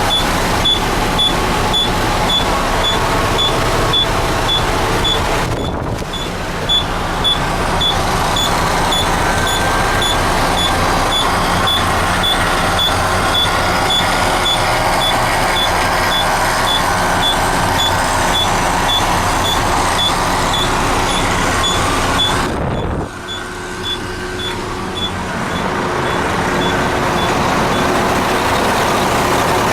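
2003 International dump truck running, with its backup alarm beeping steadily, about two short beeps a second. The beeping stops about three-quarters of the way through, and the engine carries on running.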